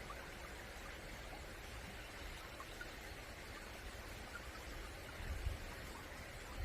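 Flowing stream water, a steady, even rush, with a brief low rumble about five and a half seconds in.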